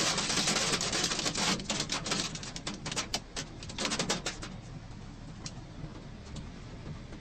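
Hailstones pelting a vehicle in a dense clatter of impacts that thins out to scattered clicks after about four seconds.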